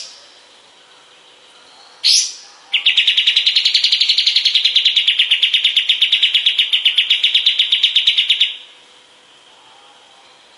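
Kapas tembak song: a short rising note about two seconds in, then a long, rapid trill of about ten even notes a second lasting about six seconds, which stops abruptly.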